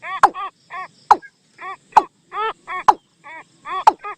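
Lure-call recording of the bird known in Thai as nok toom: short arched, nasal notes repeated two to three times a second, broken about once a second by a sharp, quickly falling note.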